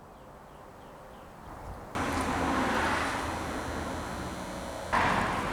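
A motor vehicle running: faint at first, then a steady rushing noise with a low hum cuts in abruptly about two seconds in and steps up again near the end.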